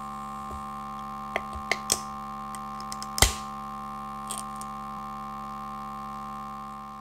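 A steady electronic drone of several held tones, with a few sharp clicks in its first half, fading out near the end.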